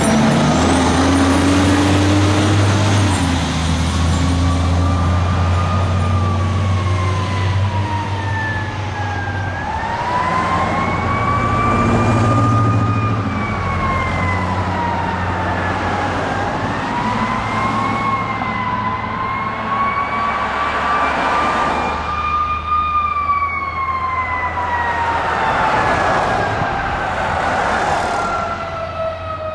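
Fire apparatus responding with a wailing siren that sweeps slowly up and down, over the low rumble of a truck engine. Near the end the siren falls in pitch and fades as the vehicle moves away.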